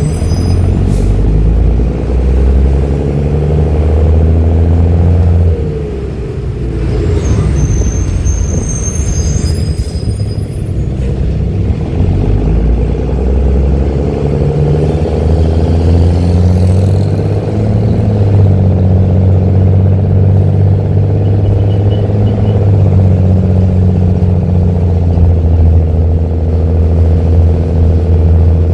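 Diesel engine of a Mercedes-Benz OH-1318 city bus running through a free-flowing, open exhaust: a loud, deep drone whose pitch drops and rises as the engine speed changes.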